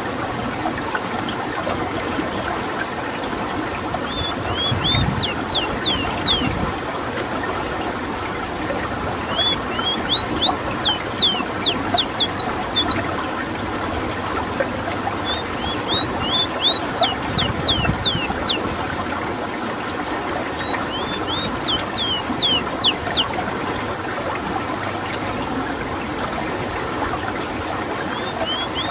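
Ruddy-breasted seedeater (rowti) singing: about five phrases of quick, high, downward-sliding notes, with pauses of a few seconds between, over a steady background hiss.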